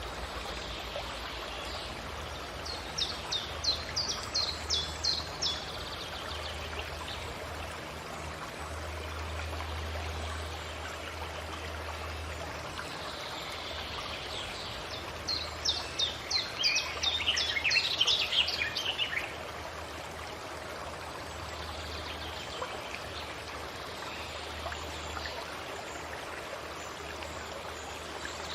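A songbird sings two phrases of quick, high, repeated notes over a steady wash of running water. The first phrase comes about three seconds in, and the second, longer one comes around fifteen seconds, falling in pitch at its end.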